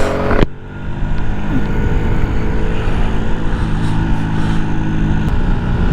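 Yamaha 125 cc single-cylinder motorcycle engine running under way. A sharp click and brief dip in level come about half a second in, then the engine holds a steady pitch, changing slightly near the end.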